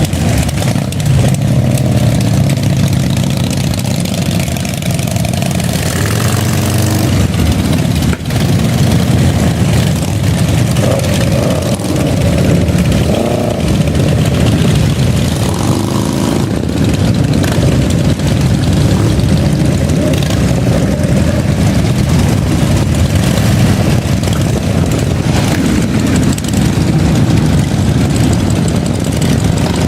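Motorcycle engines running at idle and being revved, steady low engine note throughout with changes in pitch.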